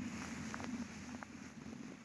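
Low, steady wind rumble on the microphone, with a couple of faint ticks about half a second and a second and a quarter in.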